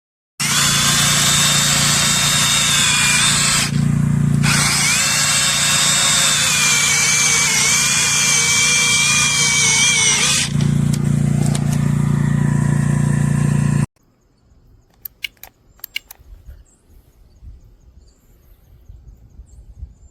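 TREXEEN brushless cordless mini chainsaw running and cutting through wood, its high motor whine sagging in pitch under load and easing back briefly twice. It stops abruptly about 14 seconds in, leaving faint clicks and rustling.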